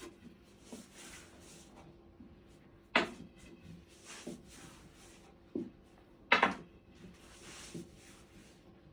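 A series of irregular knocks and clatters, two louder ones about three and six seconds in, with soft rustling between them.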